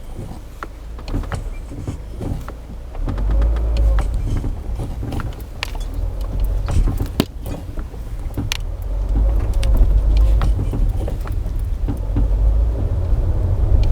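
Renault Logan rolling slowly, heard from inside the cabin: a low road and drivetrain rumble with repeated short crunching clicks from the front suspension. This is the crunch that persists after new front brake pads were fitted; the driver wonders whether it is the inner CV joints.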